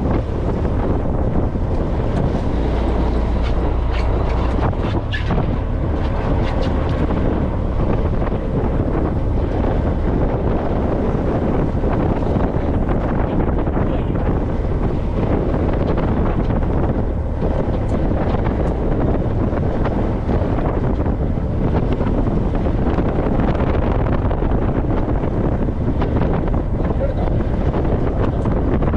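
Steady wind rushing over the microphone aboard a fishing boat at sea, with the boat's running noise beneath it.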